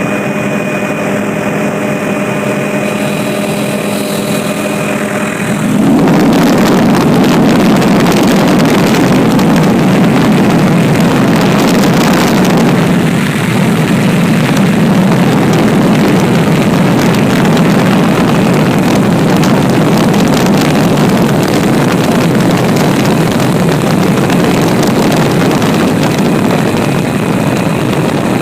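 Aircraft engine drone heard in flight, steady and humming. About six seconds in, a louder, even rush of noise takes over and carries on steadily.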